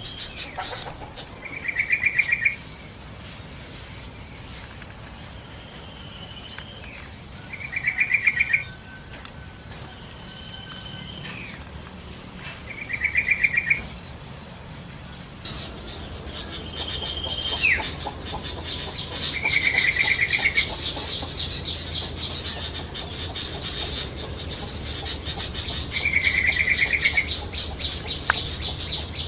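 Yellow-vented bulbul (trucukan) calling in the wild: five short, bubbly phrases of rapid notes, about one every five to six seconds. Fainter calls of other birds sit higher up. From about halfway there is a steady, fast-pulsing high trill.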